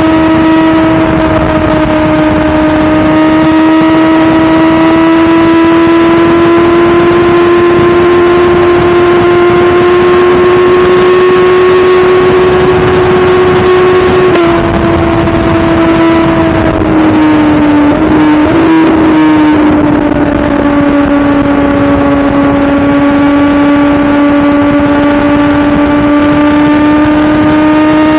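2017 BMW S1000RR's inline-four engine running at a steady high pitch on the move, slowly climbing, with a rush of wind noise. About halfway the pitch drops abruptly and wavers for a few seconds as the throttle changes, then settles and slowly rises again.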